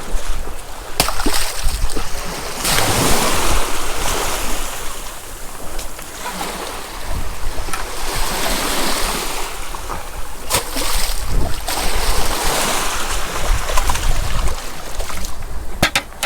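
Waves washing against a rocky shore, swelling in surges every few seconds, with wind buffeting the microphone and a few sharp clicks.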